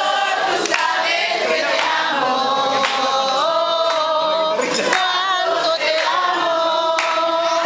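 A group of young women singing a church chorus together in unison, holding long notes.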